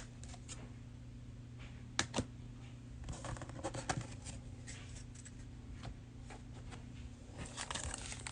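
Faint clicks and soft rustles of trading cards being handled and slid through the hands, with a couple of sharper clicks and a steady low hum underneath.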